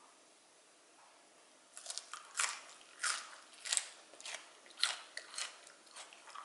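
Crunchy chewing of freshly dressed bomdong (Korean spring cabbage) geotjeori, the raw leaves crunching about twice a second, starting about two seconds in.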